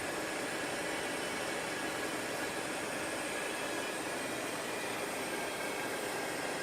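A steady hiss from a car's air-conditioning system behind the dashboard, running with the A/C on, the same level at every vent: a constant, abnormal hiss.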